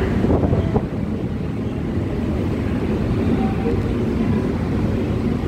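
Mumbai AC local electric train running, heard from inside the coach: a steady low rumble of the wheels on the track.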